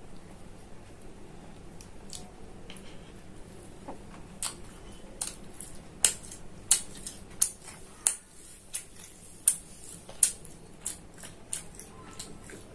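Close-miked chewing of spicy mutton liver (kaleji), with sharp wet mouth smacks. From about four seconds in they come roughly every half second to a second.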